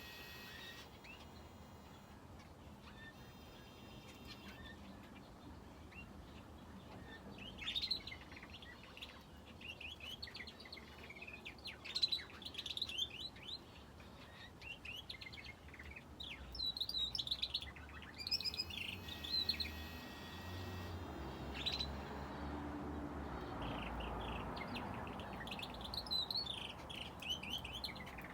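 Finches and a canary in an aviary chirping, with many short overlapping calls and a few longer buzzy notes. A low rumble rises under them about two-thirds of the way through.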